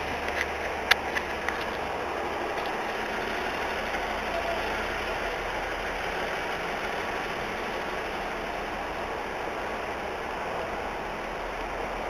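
Steady running noise of a train standing at a station platform with its engine on, and a few sharp clicks about a second in.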